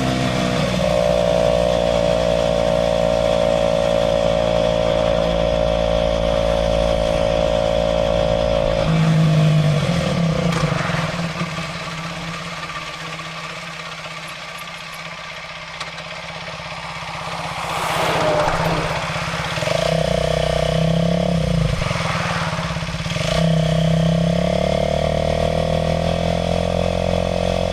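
Aprilia RS4 125's single-cylinder four-stroke engine running under way, heard from the rider's position. It holds a steady note, eases off about a third of the way in and stays quieter for several seconds, then pulls again in steps near the end.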